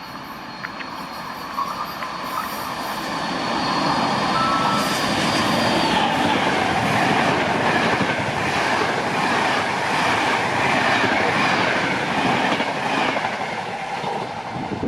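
A train running through a station: a steady high whine as it approaches, then the loud, sustained rush of the train passing close by, with a rhythmic clatter of wheels over the rail joints.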